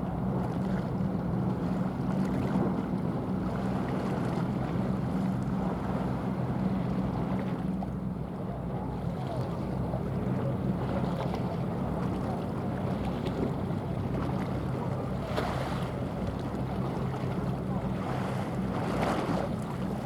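Steady low drone of a small cargo ship's engine passing on the water, the cement carrier's engine note weakening somewhat in the second half. Wind noise on the microphone and water wash run under it throughout.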